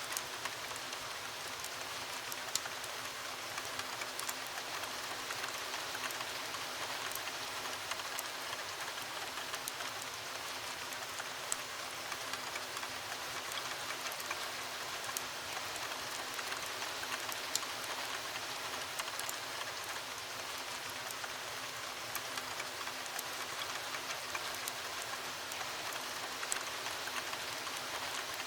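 Steady heavy rain against a window, with scattered sharp pops and clicks from a crackling wood fire.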